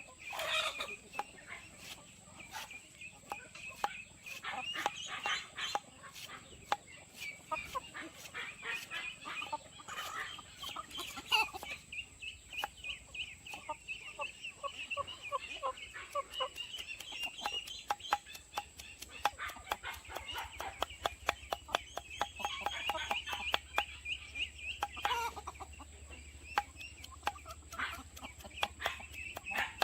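A flock of free-range hens clucking and calling, with many short overlapping calls and pecking clicks.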